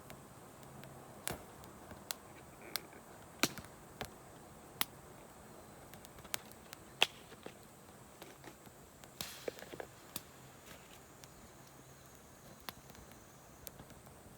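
Wood campfire crackling: irregular sharp pops and snaps from the burning wood, a dozen or so over a faint steady hiss, the loudest about halfway through.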